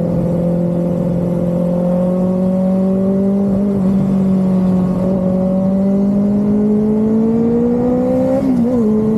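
Motorcycle engine running under way, its note rising slowly and steadily as it accelerates, with a brief wobble in pitch near the end before it settles.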